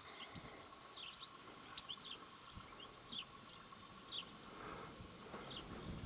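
Small birds calling faintly: short, high chirps that fall in pitch, scattered irregularly, some in quick pairs.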